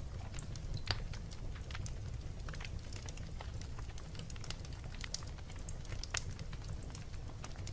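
Wood fire burning in a fireplace, a steady low rumble with irregular sharp crackles and pops, the loudest about a second in and again around six seconds in.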